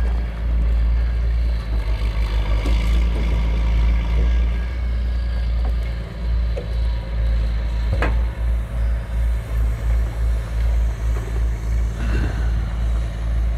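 Diesel engine of a self-loading log truck running steadily while its loader unloads logs, with a single sharp knock about eight seconds in.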